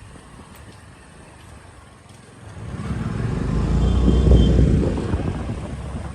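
Road noise during a motorcycle ride: a low rumble swells about two and a half seconds in, peaks around four seconds and fades again.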